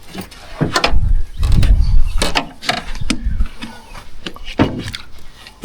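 Irregular knocks, clunks and bumps of gear and hull in a small fishing boat, with heavy low rumbling thuds about a second in, while a hooked fish is being played and wound in.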